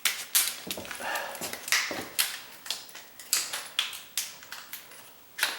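Irregular clicks and crackles of a hard plastic blister pack being handled and pried open.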